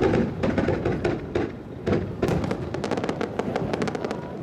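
Aerial fireworks exploding: a few deep bursts, then from about two seconds in a dense run of rapid small cracks, like crackling stars going off.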